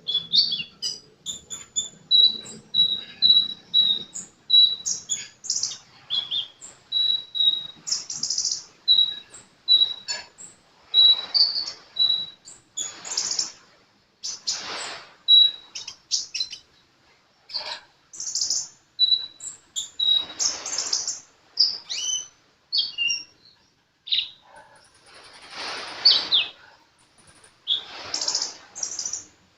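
A sunbird singing busily: runs of quick, high, repeated chirps and sharp twittering phrases, broken by short pauses.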